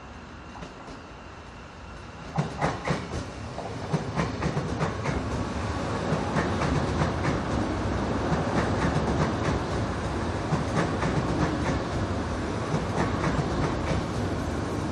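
KTX-Eum electric multiple-unit train passing close by. Its wheels clack over the track joints in a run of quick, repeated knocks that start about two seconds in, over a rumble that grows louder as the cars go past.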